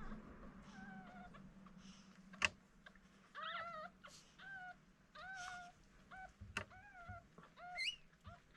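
Newborn cockapoo puppies crying with a string of short, high cries, several a second, starting about three seconds in. A sharp click comes just before the cries start, and another midway through them.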